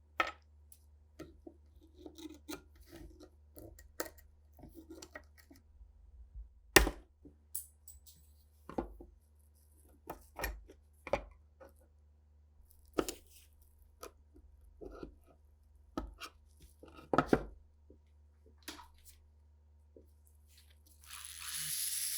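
Irregular clicks, taps and knocks of small metal parts and hand tools being handled, one sharper knock about seven seconds in. Near the end a small power tool starts up with a high whir.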